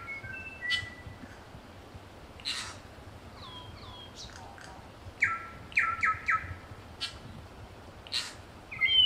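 Several New Zealand bellbirds (korimako) singing together: groups of two or three quick falling bell-like notes, with a few sharp clicks and short slurred calls between them.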